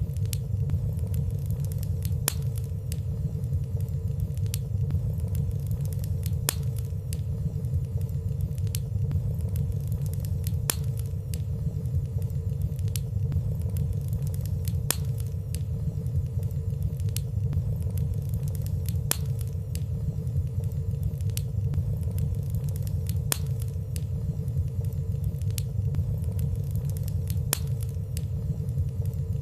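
Fireplace fire burning steadily: a low rumble of the flames with frequent small, sharp crackling ticks and no loud pops.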